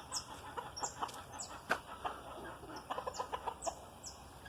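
Chickens clucking in short, scattered clucks, with a quick run of clucks about three seconds in. Short high chirps repeat about twice a second behind them.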